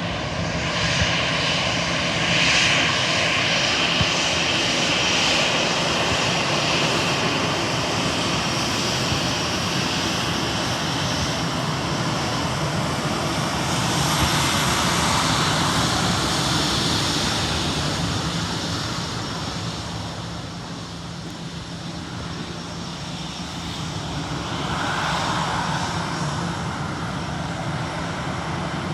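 Jet airliner engines at takeoff power during a departure: a loud, steady noise with a high whine that is strongest early on, fades about two-thirds of the way through, then swells again near the end.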